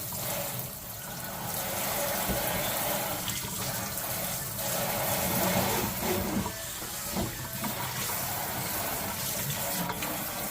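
Water running steadily from a newly installed kitchen faucet into the sink.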